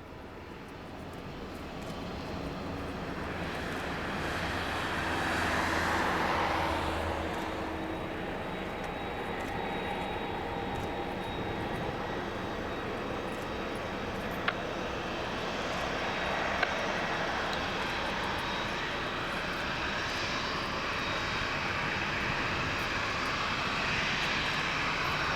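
Jet airliner's engines, swelling to a peak about six seconds in with a falling sweep in pitch as the aircraft goes by, then a steady engine noise that slowly builds again.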